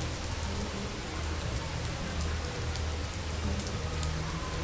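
Heavy rain pouring steadily, with scattered sharp drip ticks over a low steady hum.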